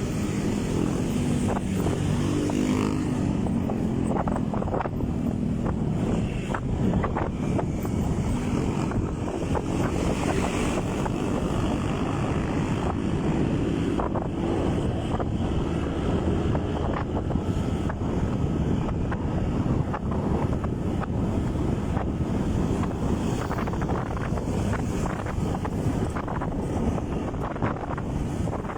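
Motorcycle engine running while riding, with steady wind rumble on the microphone.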